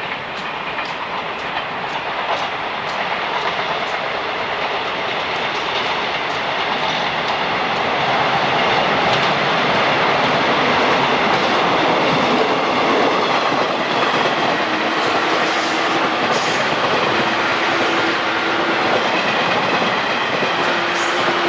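A train running past on the rails, its wheels clicking over the rail joints, the rumble growing louder over the first several seconds and then holding steady, with faint steady tones in the second half.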